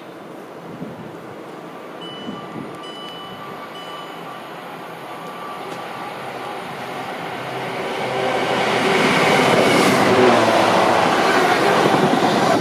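A train approaching along the track, its rumble building from about seven seconds in and staying loud to the end. Three short high beeps sound a few seconds in.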